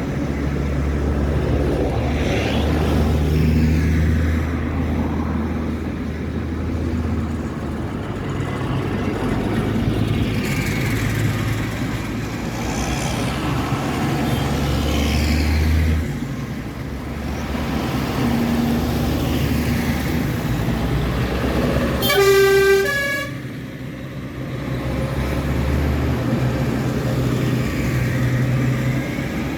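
Tractor engines running as a procession of tractors passes, swelling and fading as each goes by. One horn blast of about a second sounds about three-quarters of the way through.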